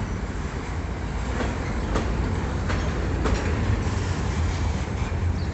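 Freight train of cellulose wagons rolling past with a steady low rumble. Wheels clack sharply over rail joints four times in the middle stretch.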